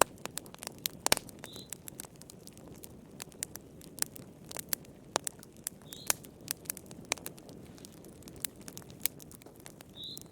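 Wood fire crackling: irregular sharp pops and snaps over a low, soft rush of flames. Three faint, short high chirps come about four seconds apart.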